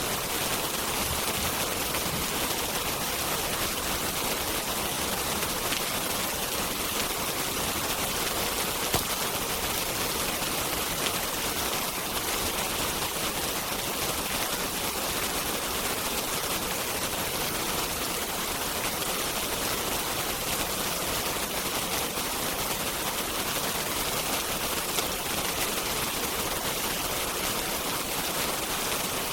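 Steady hiss of heavy rain, with a few brief crackles from a wood fire.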